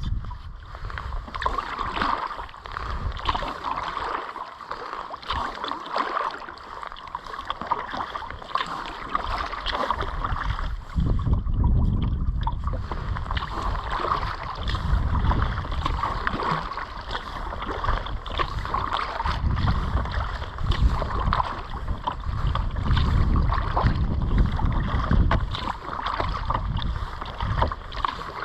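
Kayak being paddled: a steady wash of water splashing and trickling from the paddle strokes and along the hull. From about eleven seconds in, wind rumbles on the microphone in gusts.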